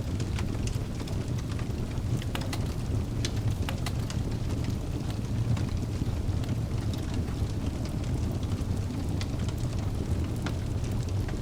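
Wood fire burning in a fireplace: a steady low rumble of flames with frequent scattered crackles and pops from the burning logs.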